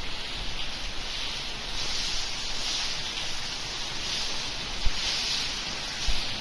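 Heavy rain falling in a steady hiss, with a couple of brief low thumps, one about five seconds in and one near the end.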